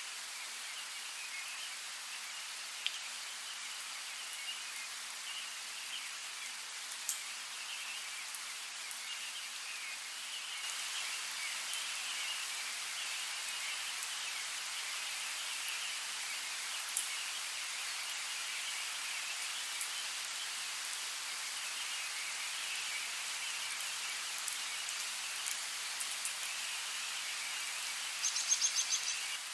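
Steady rain with scattered drop ticks, growing slightly heavier about a third of the way in. Near the end a brief run of quick, high, repeated clicks sounds over the rain.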